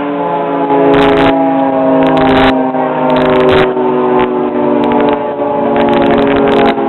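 Fire apparatus air horns blaring in long, held blasts, several horns sounding together as a steady chord, with short bursts of hiss in between.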